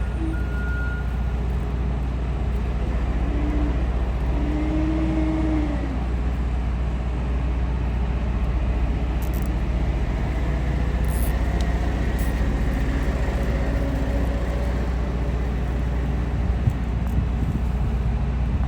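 Steady low drone of an idling diesel engine, a truck or reefer unit running nearby. A vehicle's reversing beep sounds briefly at the start.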